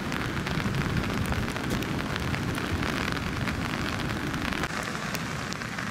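Rain falling steadily, a dense hiss of many small drop impacts.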